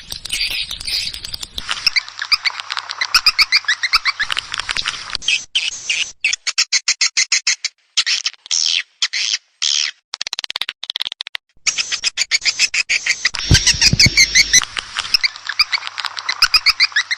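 Recorded edible-nest swiftlet lure sound: fast, dense trains of high twittering chirps, broken by a few sudden short gaps near the middle, with a brief low rumble about three-quarters through. This is the call-and-roost track that swiftlet farmers play to draw birds into a nesting house.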